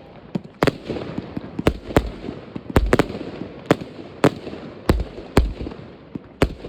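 New Year's Eve fireworks: about a dozen sharp bangs at irregular intervals, about two a second at their busiest, over a continuous crackle and rumble of more distant fireworks and firecrackers.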